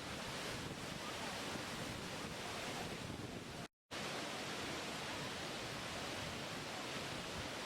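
Steady rushing noise of a waterfall, even and unbroken, cutting out to total silence for a moment a little under halfway through before resuming.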